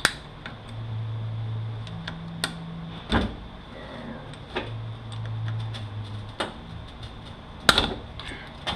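Scattered metal clicks and knocks of a scribe and screwdriver prying a beveled snap ring out of a 5-45RFE automatic transmission's clutch drum, with the sharpest knock near the end. A low steady hum rises and falls twice underneath.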